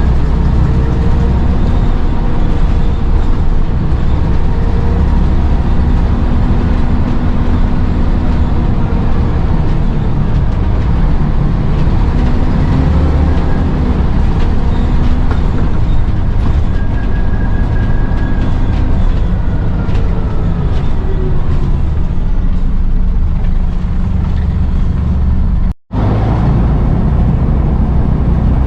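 Scania N94UD double-decker bus's diesel engine running under way, its pitch rising and falling slowly as the bus changes speed. About 26 s in the sound cuts out for a split second.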